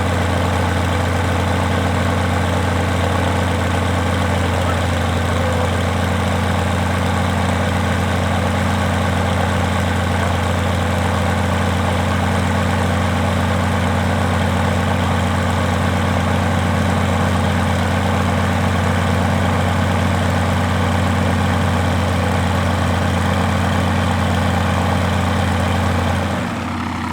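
Rotec R2800 seven-cylinder radial engine running steadily with its propeller turning, in one of its first runs after long-term storage. Its level falls about a second before the end.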